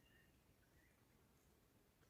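Faint bird chirps: a few short high notes near the start and again just before a second in, over quiet background hiss.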